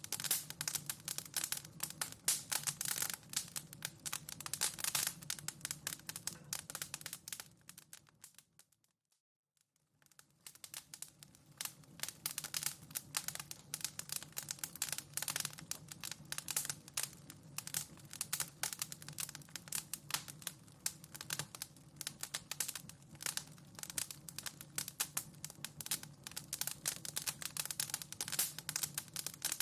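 Wood fire in a fireplace crackling with dense, irregular snaps and pops over a faint steady low hum. The crackling fades out to silence about eight seconds in, then fades back up about a second later.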